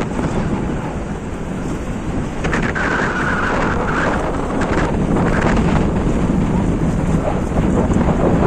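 Strong wind buffeting the camera's microphone: a loud, steady rumble and hiss in gusts, growing louder about halfway through.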